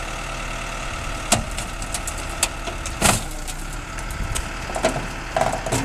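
An engine idling steadily, with sharp metallic knocks and clanks breaking in a few times, several of them close together near the end.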